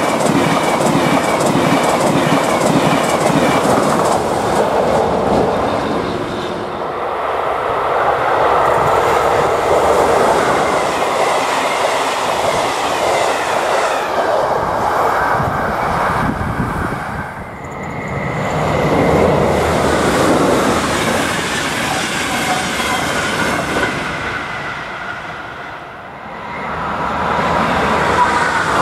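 Passenger trains running past on an electrified main line, one clip after another, their wheels clacking over rail joints. In the first stretch a ČD railjet sweeps past a level crossing whose warning bell is ringing. Near the end another crossing's warning rings again as the next train approaches.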